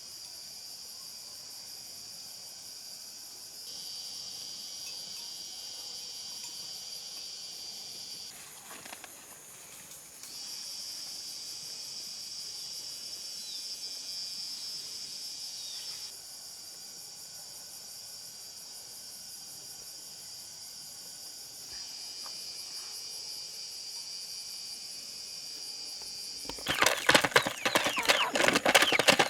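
Steady, high-pitched chorus of insects, with a pattern that shifts abruptly several times. Near the end, a loud burst of sharp, irregular sounds takes over.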